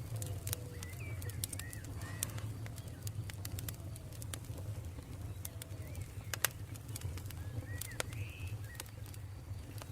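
Campfire burning with irregular sharp crackles and pops over a steady low rumble, the loudest pop about six and a half seconds in. Short chirping bird calls come and go in the background.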